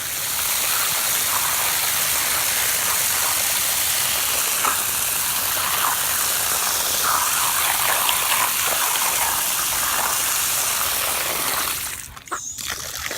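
Water gushing steadily from an outdoor rinse tap, washing sand off feet and shoes; it stops about a second before the end.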